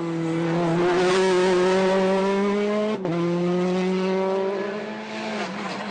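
Rally car engine running hard at high revs, its pitch holding fairly steady, with a short sharp break about three seconds in and a brief dip near the end.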